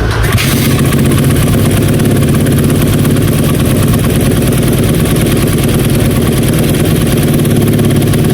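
A motor vehicle engine running at a steady speed, loud and unchanging, with a constant low hum and a lot of noise over it.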